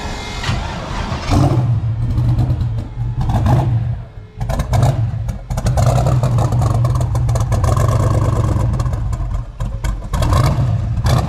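Twin-turbo 5.3-litre LS V8 of a 1963 Ford Falcon running loud and steady. It drops away briefly about four seconds in, then comes back up.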